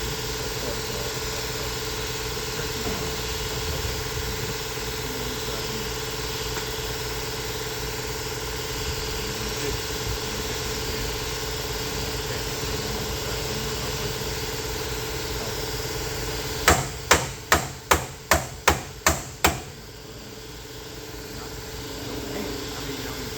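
Eight quick hammer blows, about three a second, well past halfway through. Under them runs a steady machine hum with a constant tone.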